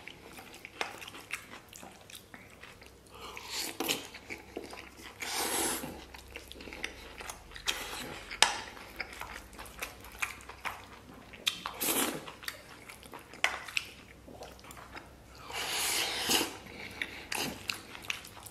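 Close-up mukbang eating: a person chewing mouthfuls of soft stewed beef brisket and sauce-soaked rice, with a wooden spoon clicking and scraping against a stainless steel bowl. The clicks are many and short, with a few louder mouthfuls along the way.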